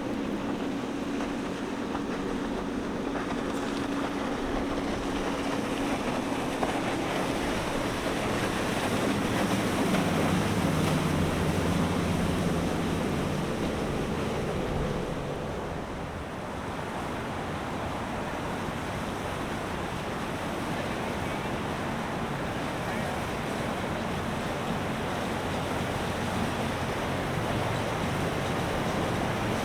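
Boat engine running on the river under steady wind and water noise; the engine hum swells about ten seconds in and eases after about fifteen seconds.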